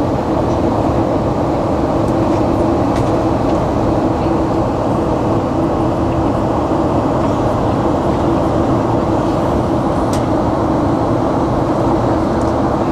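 Steady cabin noise inside a jet airliner in flight: the engines and airflow make an even rumble with a steady hum running through it.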